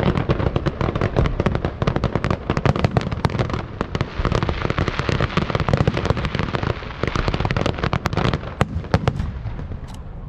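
Aerial fireworks show: a dense, rapid barrage of bangs and crackling, thinning to a few separate bangs near the end.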